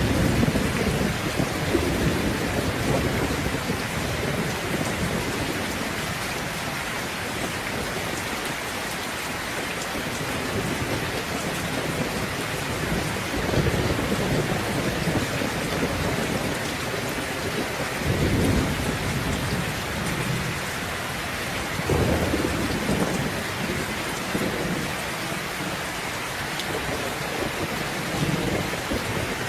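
Steady heavy rain falling, with rolls of thunder rumbling several times; the strongest come about 13, 18 and 22 seconds in.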